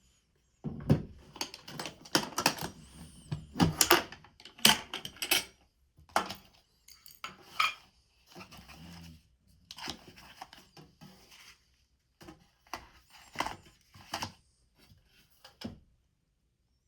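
Small hard objects clicking and clattering as they are handled on a work surface. The sound comes in irregular bursts, dense in the first few seconds and then more scattered.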